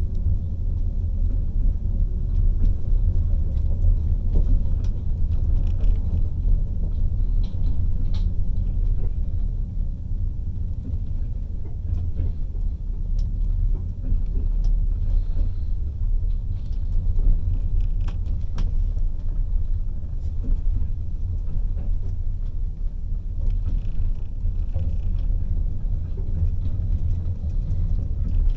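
Steady low rumble of a passenger train running along the track, heard from inside the carriage at the window, with a few faint scattered clicks.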